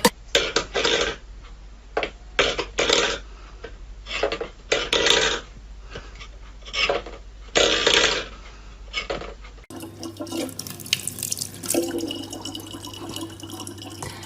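Water splashing in irregular bursts, then after a cut about ten seconds in, a tap running steadily over a low hum.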